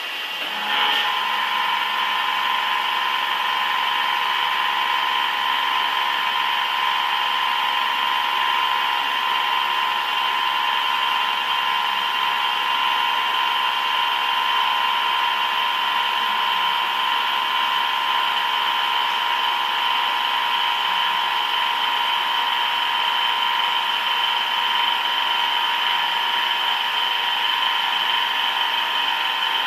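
A heavy metal-cutting machine tool running with a steady high whine. It comes in just under a second in and holds one even tone throughout.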